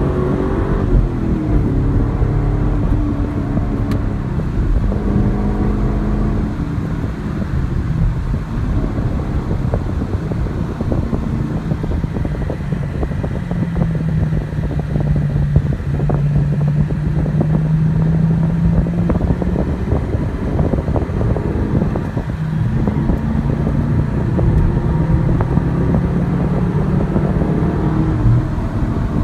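Chevrolet Camaro SS's 6.2-litre LS3 V8 engine running under way, heard from inside the car. Its pitch falls about a second in and shifts several times as the throttle and gears change, then holds steady for several seconds in the middle.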